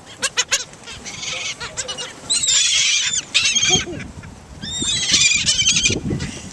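Seagulls calling in two bouts of repeated high squealing cries, the first about two seconds in and the second about five seconds in, as they wait to be fed pizza crust. A few sharp clicks come just before the calls.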